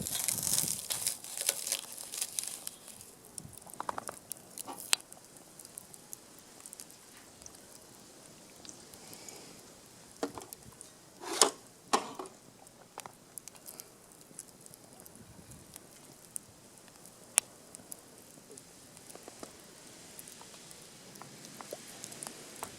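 Small wood fire crackling, with scattered sharp snaps and pops from the burning wood and some rustling of dry kindling at the start.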